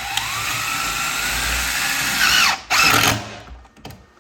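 Cordless power drill driving screws. The motor whine speeds up over the first second, runs steadily, then winds down and stops about two and a half seconds in; a second short burst follows just after.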